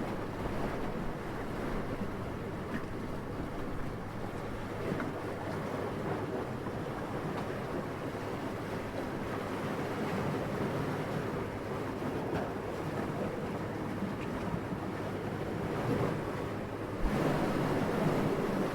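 Steady, soft wind rushing, swelling into a stronger gust near the end, which opens with a brief low thump.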